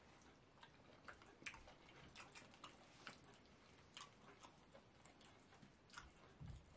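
Faint, wet eating noises: scattered small clicks from chewing mouthfuls of fufu and slimy okra soup, with fingers working the soft food, and one soft low thump near the end.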